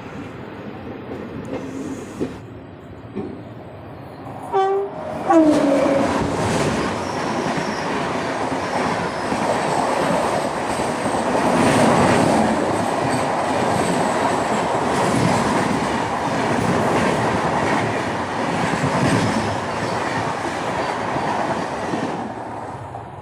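A train running on the rails. About five seconds in, a passing train's horn sounds and slides down in pitch. Then the loud rush and clatter of its coaches going by runs for about sixteen seconds and fades away near the end.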